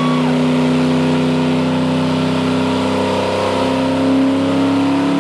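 Chevy Blazer's engine revving steadily during a burnout, its pitch creeping up in the last couple of seconds.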